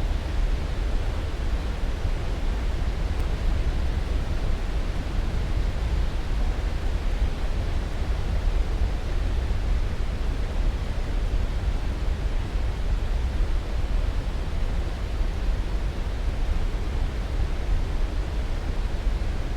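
Steady sleep-aid noise, an even hiss with no changes, heaviest in the low end and thinning toward the top, like pink noise.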